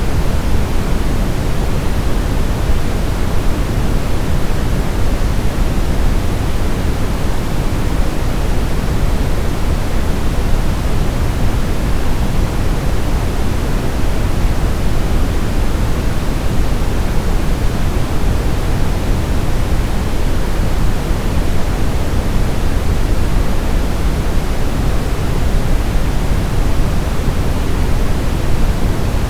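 Steady white noise played as a baby sleep aid: a constant, even hiss with more weight in the low end, unchanging throughout.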